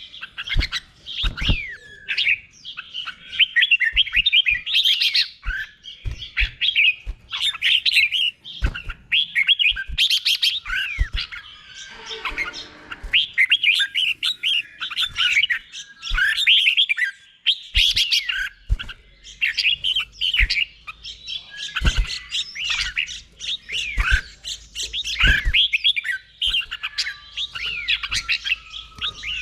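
Red-whiskered bulbul singing, a steady run of short, quick, sliding chirpy phrases repeated one after another in the doubled style that is bred for song contests. Several sharp low knocks are heard among the phrases.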